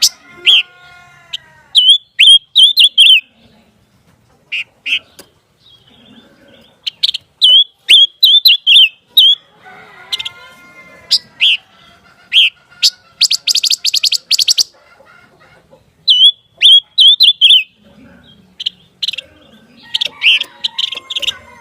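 Pancawarna bird singing: quick groups of short, sharp high chirps repeated every second or two, with a lower, drawn-out call twice and a fast rattling trill in the middle.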